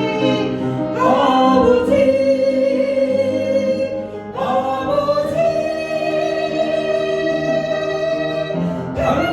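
Congregation singing a slow Korean worship song with instrumental accompaniment, holding long notes that change pitch about every few seconds.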